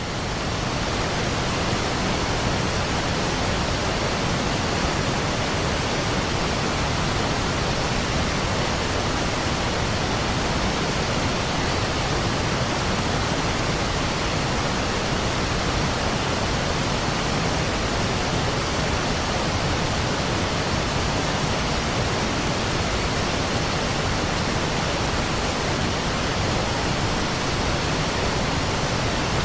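Rushing water making a steady, even roar with no breaks or changes.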